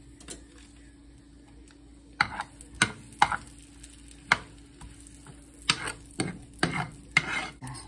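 A cooking utensil tapping and scraping against a pan while garlic is stirred into melted butter, a series of sharp, irregular knocks starting about two seconds in.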